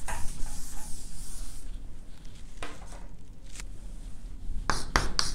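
Writing strokes on a classroom board: a few faint scratches mid-way, then a quick run of short sharp strokes near the end. A steady low electrical hum runs underneath.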